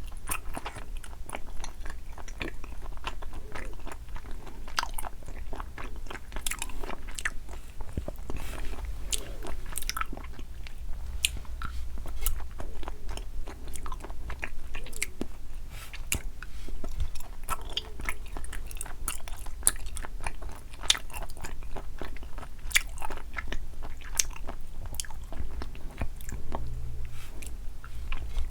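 Close-miked chewing and biting of sweets, dense with small sharp crunches and clicks.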